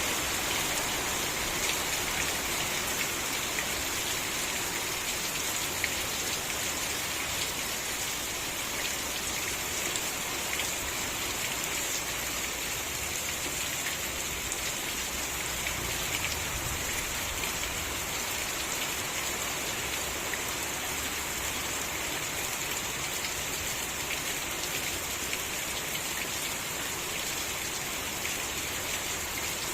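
Steady rain falling: an even, continuous hiss with many small drop ticks scattered through it.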